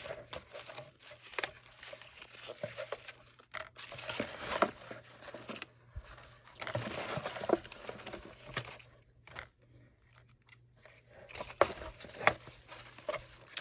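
Paper rustling and crinkling with light irregular taps and clicks as small paper cluster embellishments are handled and picked through in a bin.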